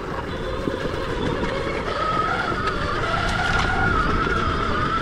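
Stark Varg EX electric dirt bike riding off-road: the electric motor's high whine comes in about two seconds in and wavers in pitch, over steady wind and tyre rumble.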